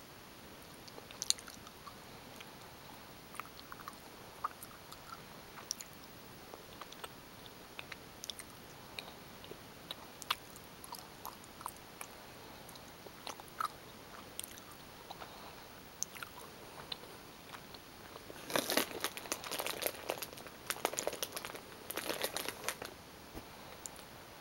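Close-miked chewing of gummy bears: scattered small wet mouth clicks, then a louder, denser stretch of crackling for about four seconds near the end.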